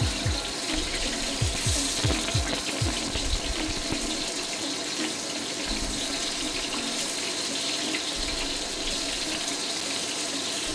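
Pork meatballs sizzling in hot oil in a wok, a steady frying hiss, while they are turned over with tongs partway through searing.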